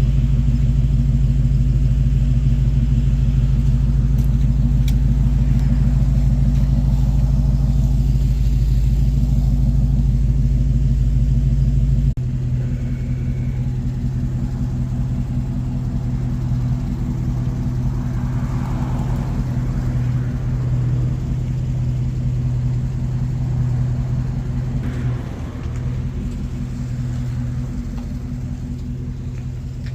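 Motor vehicle engine running steadily with a low rumble, as when driving. About twelve seconds in the sound drops abruptly in level and changes to a different steady drone.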